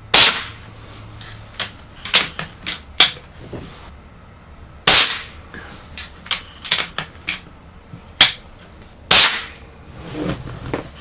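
Three unsuppressed shots from a .22 calibre Kral Puncher Breaker Silent PCP air rifle fitted with a quiet kit, about four and a half seconds apart. Smaller sharp clicks fall between the shots.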